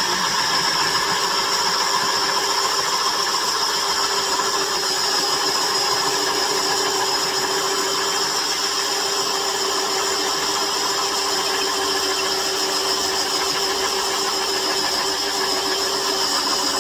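Old electric drill running steadily at constant speed, drilling holes into timber, with a steady whine.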